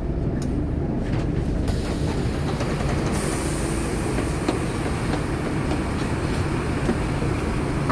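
Scania K230UB city bus with its nine-litre five-cylinder diesel running, a steady low engine and road rumble. More noise comes in a little under two seconds in, and a high hiss joins about three seconds in.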